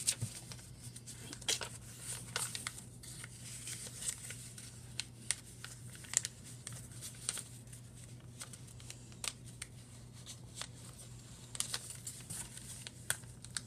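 A sheet of paper being folded in half and creased by hand: irregular crinkling and rustling with scattered sharp crackles.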